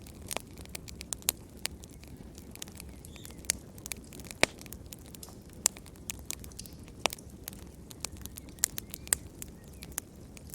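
Fireplace fire crackling: sharp pops and snaps at irregular intervals, a few of them louder, over a low steady rumble of the flames.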